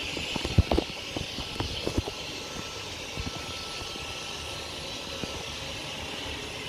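Hoover vacuum cleaner running with a steady motor hum and hiss, with several knocks and clatters in the first two seconds.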